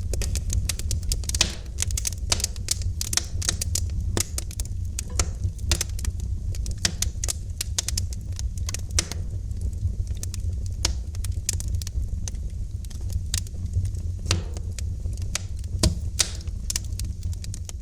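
Wood fire in a fireplace crackling, with many irregular sharp pops and snaps over a steady low rumble of the burning flames.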